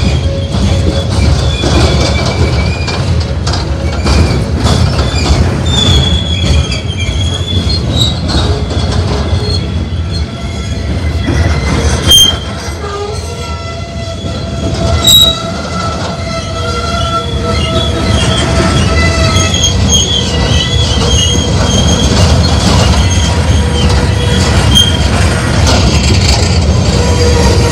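Coal train hopper cars rolling past close by: a steady low rumble of wheels on rail, with the wheels squealing in several thin high tones that come and go. Two sharp bangs about three seconds apart stand out near the middle.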